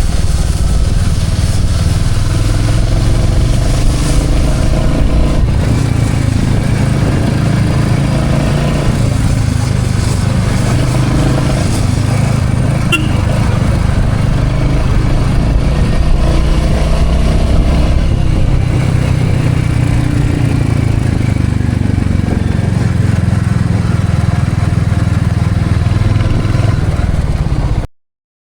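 Motorcycle engine running steadily while riding, with a heavy low rumble. It cuts off suddenly near the end.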